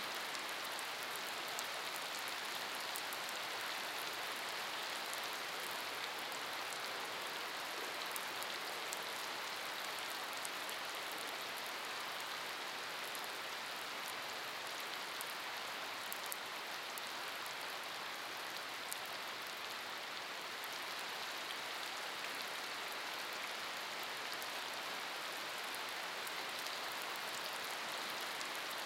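Steady rain falling on wet pavement and puddles: an even hiss with the fine, sharp ticks of single drops striking the surface.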